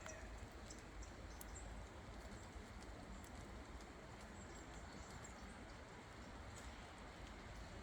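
Faint forest ambience in light rain: a steady low hiss with scattered soft ticks, from drips or steps on the path.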